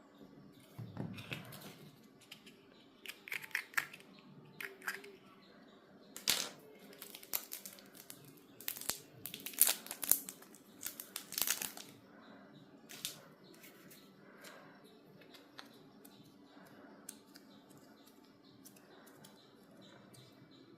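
Plastic packaging of modelling clay crinkling and tearing in irregular bursts as it is opened by hand, dying down after about twelve seconds to faint handling.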